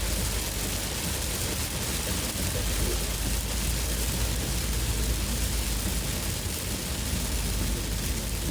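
Heavy monsoon rain pelting a moving car: a steady, dense hiss over the low rumble of the car on the wet road.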